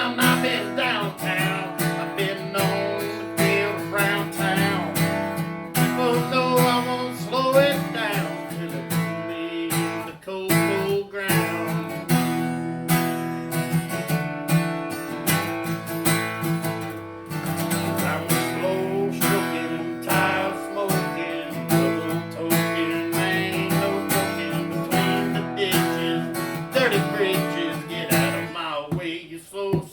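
Acoustic guitar strummed steadily through an instrumental passage of a country song, without singing.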